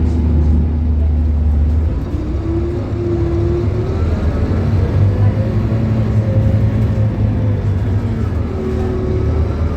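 Scania K280UB bus's Scania DC9 five-cylinder diesel engine running under load. The note changes about two seconds in, then climbs as the bus pulls away and accelerates.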